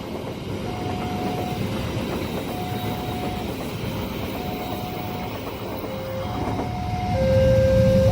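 Train running past a level crossing, its steady rumble under the crossing's electronic warning alarm, which beeps a tone of under a second about every two seconds. Near the end the alarm alternates a higher and a lower tone and the rumble grows louder.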